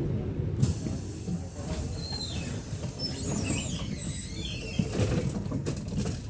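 A tram running on street track: a steady low rumble, with high, wavering wheel squeal from about two seconds in.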